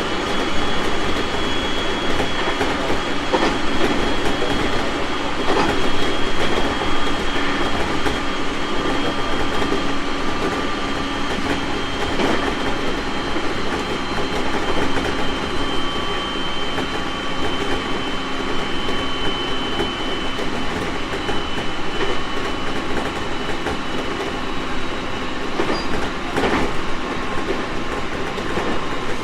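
JR East 701 series 1000-subseries electric train running, heard from on board: a steady loud rumble with the motor whine slowly falling in pitch as the train eases its speed, and scattered clacks of the wheels over rail joints.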